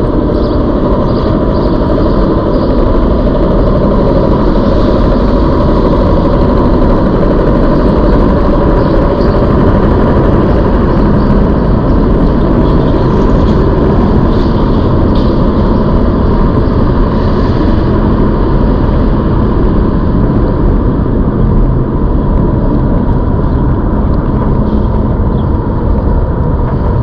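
Loud, steady wind rush and rolling noise while riding a ZOOZ electric bike, with no letup.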